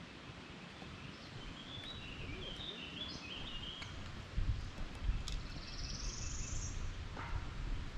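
Outdoor ambience with birds singing over a steady hiss: a run of short chirps, then a rising buzzy trill a little past the middle, with low rumbling underneath in the second half.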